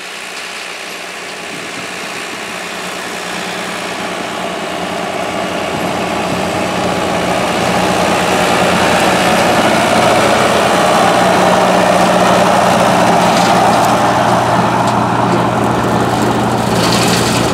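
Farm tractor's engine running steadily under load while it pulls a rotary brush cutter through weeds, growing louder as it approaches. It cuts off suddenly at the end.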